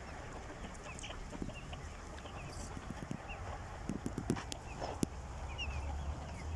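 Free-range desi chickens clucking, with many short, high peeping chirps and a few sharp clicks.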